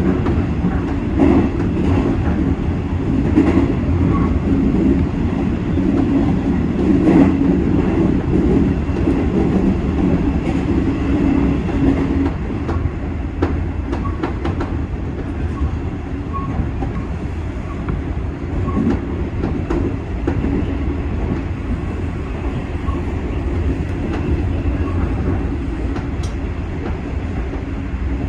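JNR 201 series electric commuter train running along the line, heard from inside the front car: a steady rumble of wheels on rail with scattered clicks over rail joints.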